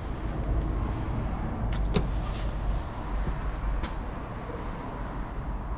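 Station passenger lift running as the car arrives at the platform, a steady low electric-motor hum with a couple of faint clicks.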